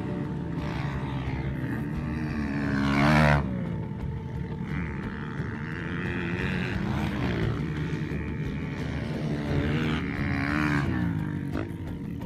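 Two-stroke motocross bike engines revving and shifting on a dirt track, the pitch climbing and falling repeatedly. The loudest run is about three seconds in, a rising note that cuts off suddenly, after which other bikes keep revving.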